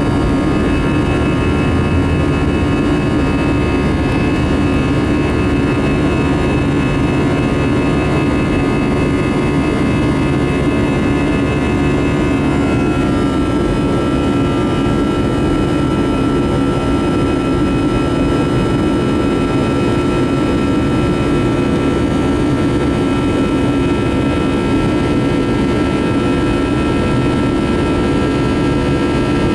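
Steady cabin noise inside an Airbus A319-115 climbing after takeoff: a rush of air and engine noise from its CFM56 turbofans, with a whine of several tones that shifts slightly about halfway through.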